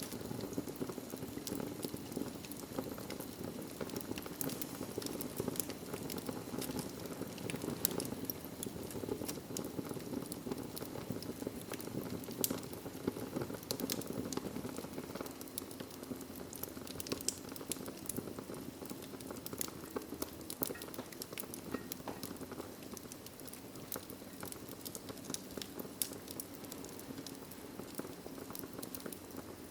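Fireplace fire crackling: a steady low rush of burning with frequent small pops and snaps scattered irregularly through it.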